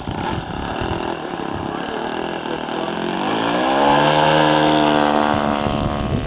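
RC model airplane's propeller engine idling, then revving up steeply about three seconds in and holding a steady higher pitch for over a second.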